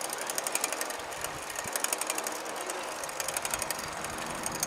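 Bicycle freewheel clicking rapidly in runs as the rider coasts without pedalling, over a steady rushing noise.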